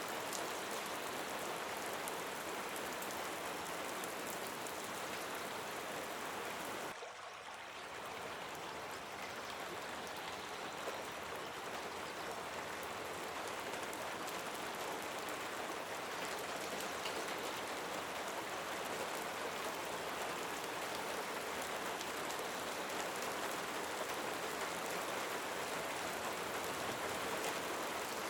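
Steady rain falling, a dense even patter, with a brief dip in level about seven seconds in.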